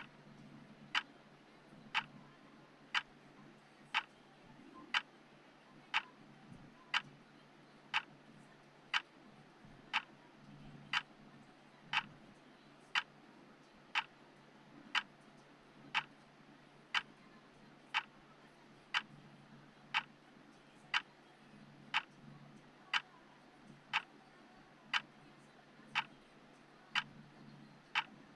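Clock ticking steadily at one sharp tick a second, over a faint low hum.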